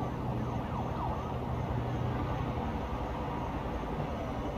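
Town background: a steady low rumble of traffic with a faint siren wailing in the distance, gliding in pitch.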